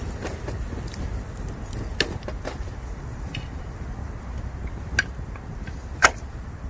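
Bamboo firewood burning in a campfire, cracking and popping now and then over a low steady rumble; the sharpest pop comes about six seconds in, with smaller ones at about two and five seconds.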